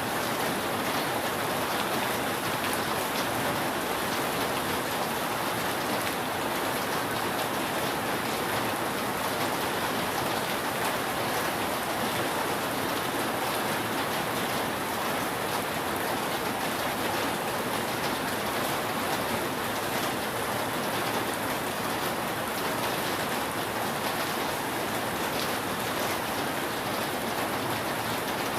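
Steady rain falling on a roof, an even dense patter with scattered individual drop ticks.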